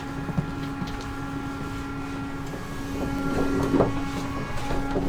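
Steady electrical hum of a train car standing at the platform, one even tone with fainter overtones, under a light background of noise and a few faint clicks.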